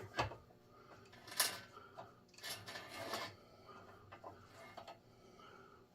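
Thread tap being worked into a hole in an engine block: intermittent metal scraping and clicks, the sharpest scrape about a second and a half in.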